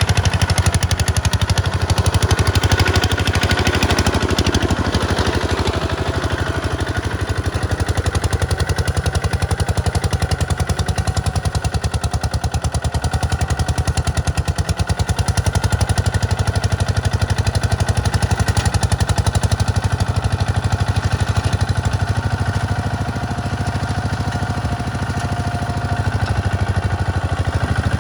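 Tractor diesel engine running steadily, with a rapid, even pulsing beat.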